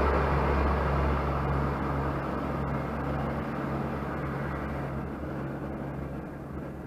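Passenger express train running away into the distance, its rumble on the rails fading steadily, with a steady low hum beneath it.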